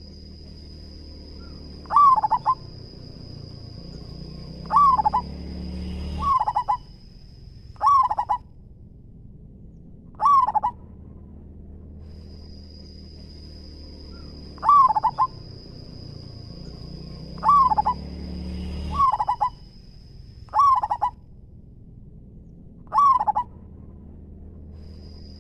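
Zebra dove (perkutut) cooing: about ten short, loud coo phrases, a few seconds apart. A steady high-pitched tone runs behind it and breaks off twice.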